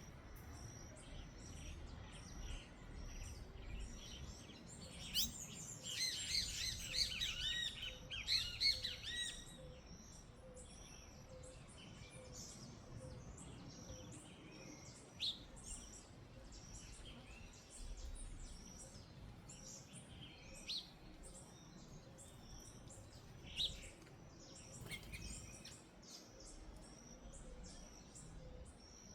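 Wild backyard birds chirping and calling: a loud flurry of rapid, overlapping high chirps from about five to nine seconds in, then scattered single calls.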